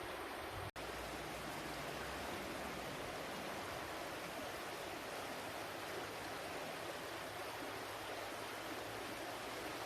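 Steady rush of flowing stream water. It cuts out for a split second under a second in, then carries on unchanged.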